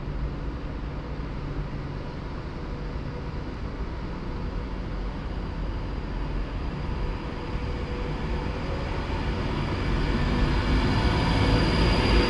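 Class 390 Pendolino electric train at the platform, its equipment giving a steady hum with a few held tones, growing louder over the last few seconds.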